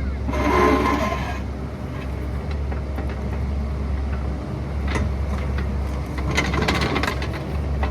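Excavator engine running steadily, with a short squealing scrape about half a second in and bursts of metallic scraping and clanking near the end, as of the steel bucket working against rock.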